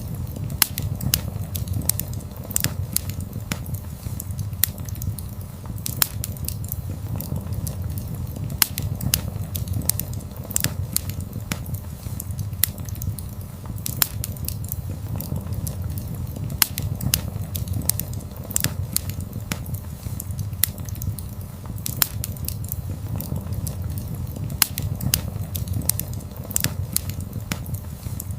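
Wood fire burning: a steady low rumble of flames with frequent irregular crackles and sharp pops from the burning logs.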